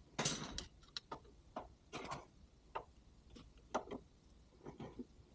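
Irregular light clicks and ticks, about a dozen scattered through, with two short rustling scrapes: small objects being handled.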